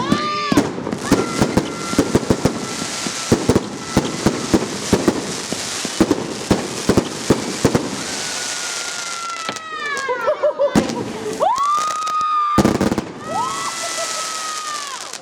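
Multi-shot consumer fireworks cakes firing: a rapid run of sharp bangs as small shells burst, then crackling bursts with fewer bangs in the second half.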